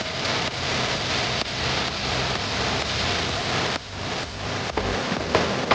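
Passenger train coaches rolling past close by: a steady rushing rumble with faint regular wheel clicks about twice a second. The noise dips briefly about two-thirds through, and a few knocks follow near the end.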